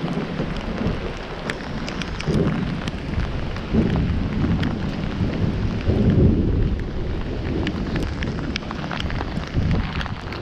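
Heavy rain falling, with many sharp ticks of drops striking close by and low rumbles that swell and fade every couple of seconds.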